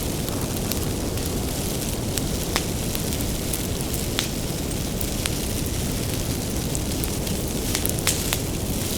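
Wood bonfire burning with a steady low rush and scattered sharp crackles and pops from the firewood; louder snaps come about two and a half seconds in, about four seconds in, and twice near the end.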